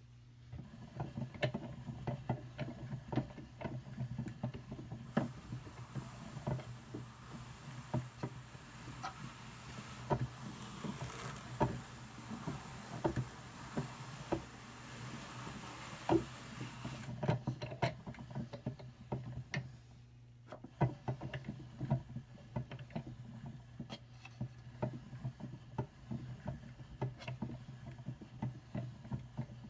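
Hand-cranked Brother drum carder with fine carding cloth being turned, giving a run of irregular clicks and ticks as the drums rotate. For a stretch in the middle, wool brushing across the carding cloth adds a soft hiss. The cranking eases briefly about two-thirds of the way through.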